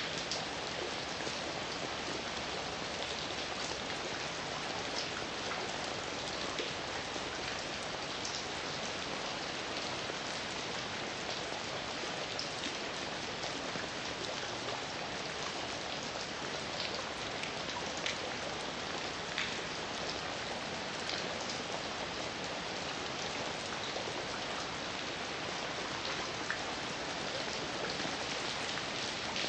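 Steady heavy rain falling, an even hiss with scattered individual drops ticking on a surface.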